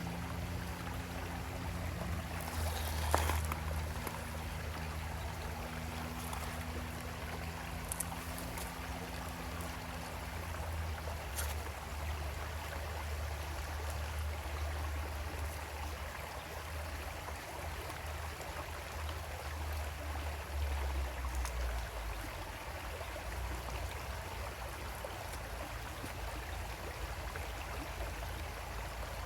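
Small creek flowing, with a steady rush and trickle of water over stones. A low steady hum sits underneath for the first ten seconds or so, and there is a single sharp click about three seconds in.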